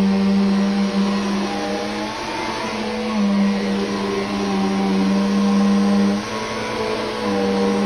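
Vacuum cleaner motor running steadily after being switched on, a high hum whose tone shifts a few times as it works, dipping briefly about six seconds in.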